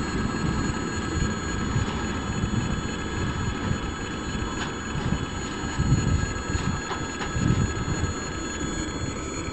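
Freight wagons running past on the rails, with a low rumble and occasional sharp wheel clicks, while the level crossing's electric warning bell rings steadily.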